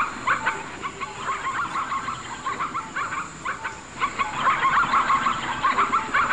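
Zebra calling: a rapid series of short, barking yelps that comes in runs with brief pauses.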